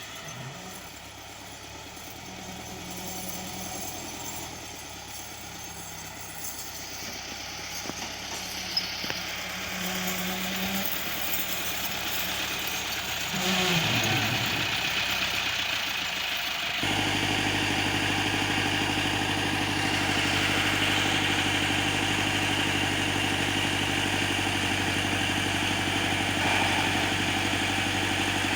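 Tractor engines running, building gradually in level; about two-thirds of the way in the sound changes abruptly to a steady, close tractor engine running at an even speed.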